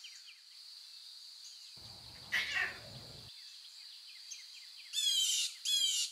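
Birds calling in a natural soundscape: repeated short falling chirps over a steady high drone, with a brief louder call about two and a half seconds in and two loud bursts of rapid descending chirps near the end.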